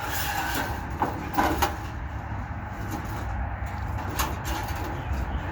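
A few light knocks and rattles from a bird trap or cage being handled, over a steady low rumble.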